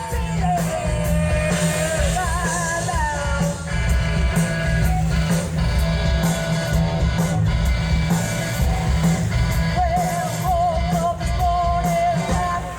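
Live rock band playing, with a singer, guitar and heavy bass, heard from the crowd.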